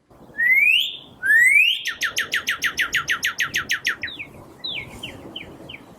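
A songbird singing: two rising slurred whistles, then a fast trill of about ten notes a second, then a few slower falling notes near the end, over a faint field-recording hiss.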